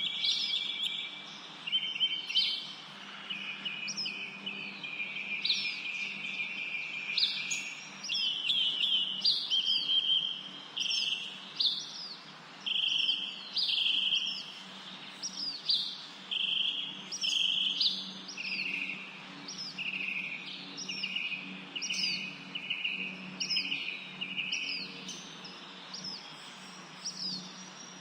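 Birds chirping and singing without a break: a stream of short, repeated chirps about a second long, mixed with quick higher notes that sweep downward. A faint steady low hum runs underneath.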